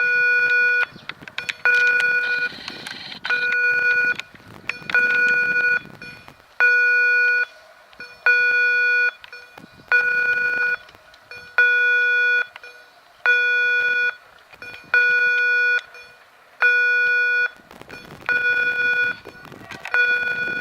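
Electronic railway level-crossing warning signal sounding a steady beeping tone, one beep about every 1.6 seconds, with a low rumble under it for the first few seconds and again near the end.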